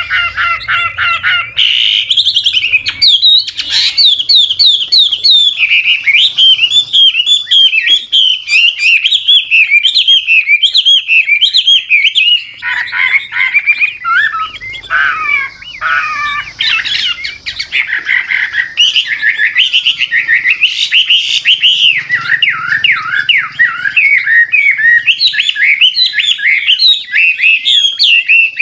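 A mature, wild-caught Chinese hwamei sings a long, continuous song of rapid whistled phrases. It keeps switching phrase and pitch, with no real pause.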